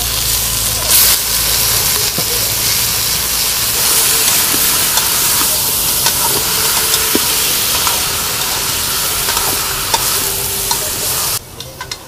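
Chicken pieces sizzling as they sauté in a large metal pot, stirred with a wooden ladle that knocks and scrapes against the pot in a few sharp clicks. The sizzling cuts off suddenly near the end.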